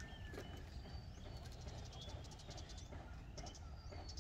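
Birds calling: short whistled notes and quick runs of high chirps, repeated every second or so over a low steady background rumble.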